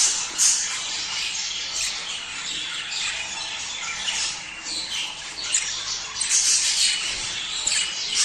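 A flock of budgerigars giving breeding-season chatter: continuous high-pitched warbling and chirping, with louder squawks breaking through every second or so.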